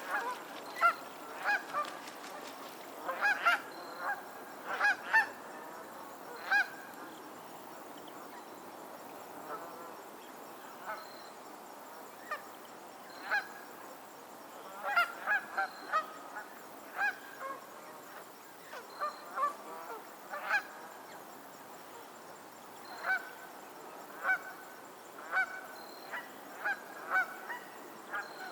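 Geese honking on a lake: short, repeated calls, several birds at once in busy bursts, with quieter stretches between them.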